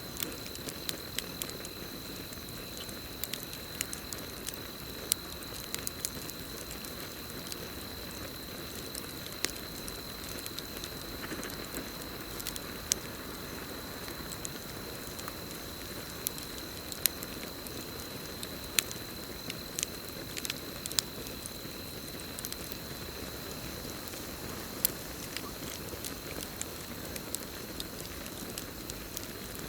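Campfire crackling, with irregular sharp pops and snaps over the steady hiss and rustle of burning wood. A continuous high-pitched cricket chorus trills underneath.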